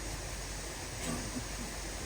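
Steady background hiss, with a faint click about a second in.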